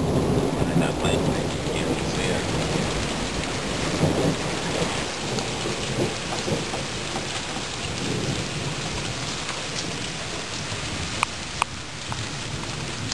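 Thunder rumbling and slowly fading after a lightning strike, over steady heavy rain. Two sharp taps come close together near the end.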